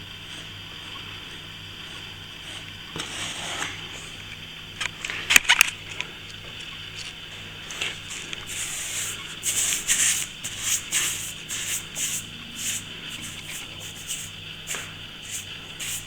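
A plastering knife or trowel working filler on a cracked ceiling joint in short, repeated scraping strokes. A few sharp clicks of the tool come about five seconds in. A steady low hum runs underneath.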